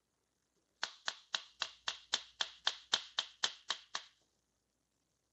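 A steady run of about a dozen light metal taps, about four a second, lasting some three seconds. This is a hammer tapping on an old starter motor to drive out an armature stuck in its bearing.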